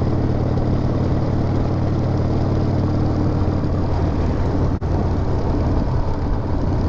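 Harley-Davidson V-twin motorcycle engine running steadily on the move, with wind and road noise over it. The sound cuts out for an instant about five seconds in.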